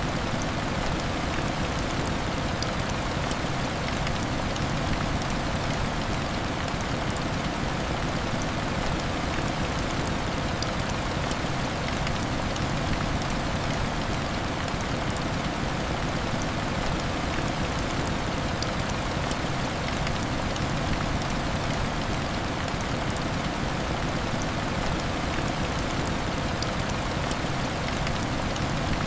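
Steady heavy rain: an even, unbroken hiss with scattered faint ticks of drops.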